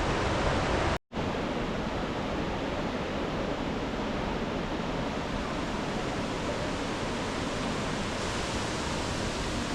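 Steady rushing roar of falling water from Zillie Falls, cutting out completely for a moment about a second in.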